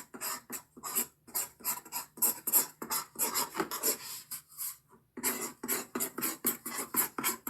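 A pen writing by hand: quick scratchy strokes, several a second, with a short pause about two-thirds of the way through.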